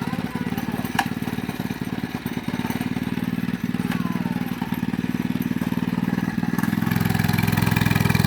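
Mini bike's small gas engine running steadily with a fast, even firing pulse. A sharp click comes about a second in, and the engine grows louder and heavier near the end.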